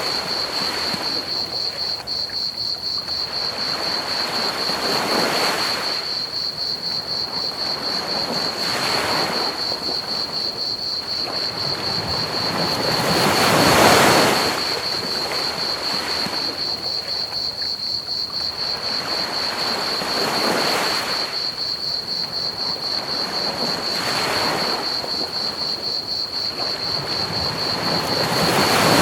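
Ocean waves breaking on a beach, swelling and falling every few seconds, the biggest about halfway through. Under them, a constant high, rapidly pulsing chirping of crickets and a steady hiss of pink noise.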